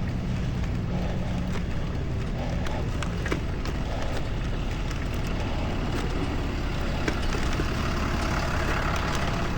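Steady low rumble of motor traffic on a narrow city street, heard from a bicycle riding alongside it, with a continuous hiss of road noise.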